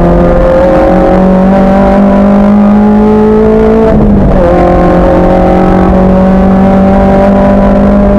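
Racing car's engine under load on track, loud, its pitch climbing steadily as it accelerates. About four seconds in there is a quick gear change: the note breaks, drops, then climbs again.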